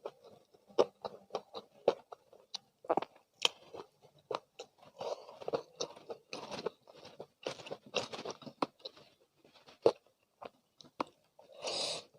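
Close-miked chewing of crispy spicy fried chicken, with many irregular crunches of the fried coating and wet mouth sounds. The crunching is densest in the middle, and a louder bite comes near the end.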